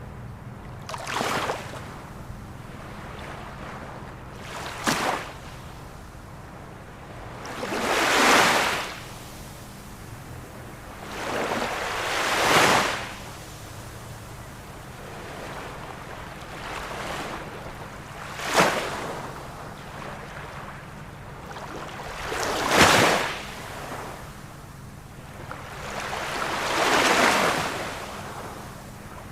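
Ocean waves breaking and washing onto the shore, a surge of surf every three to four seconds. Some breaks land as short, sharp crashes and others as longer rushing washes, over a faint steady low hum.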